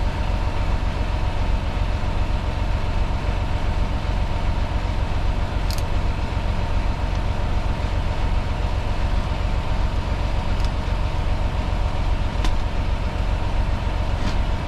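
Semi truck's diesel engine idling steadily, a constant low rumble heard inside the cab, with a few faint clicks.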